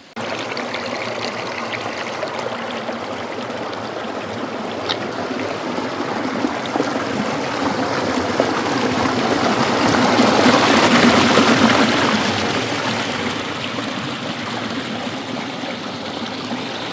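Water rushing steadily, swelling louder about ten to twelve seconds in.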